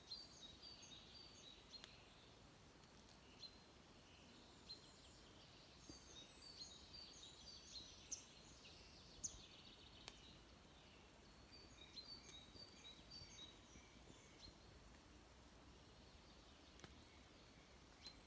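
Faint birdsong: small birds chirping and twittering in short, high notes, busiest in the middle of the stretch, with a few soft clicks.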